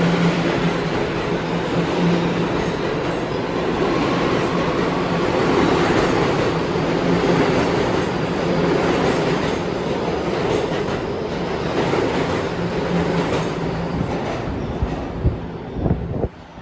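New York City subway train running through the station, a loud steady rumble over a constant low motor hum, with wheels clattering on the rails. A few sharp knocks come near the end, and then the sound drops away abruptly.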